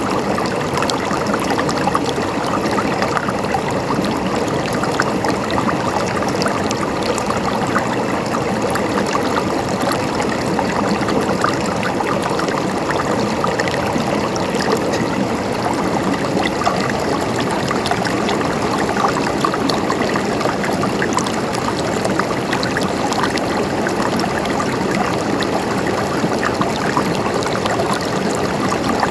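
Stream water flowing and gurgling, a steady even rush full of small splashes and trickles.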